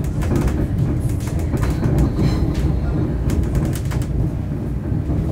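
Passenger train running, heard from inside the carriage: a steady low rumble of wheels on track with irregular clicks and rattles.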